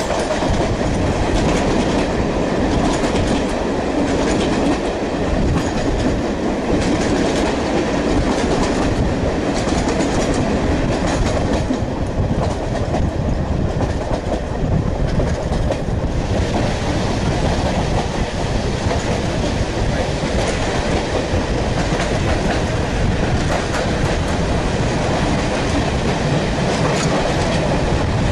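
Running noise of a 4-BIG carriage on the move, hauled by a Class 33 diesel: a steady rumble of wheels on rail with clicks over the rail joints.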